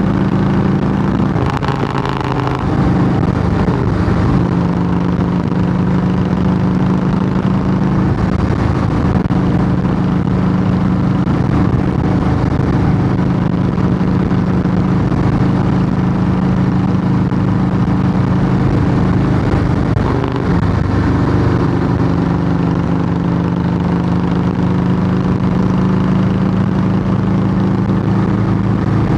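Harley-Davidson Heritage Softail V-twin running steadily through Samson fishtail true dual exhaust pipes. The engine note changes briefly about two seconds in and again about twenty seconds in.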